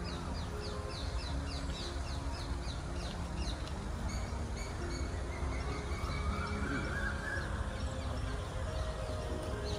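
Birds calling: a rapid run of short falling chirps over the first few seconds, then scattered short high notes, over a steady low rumble.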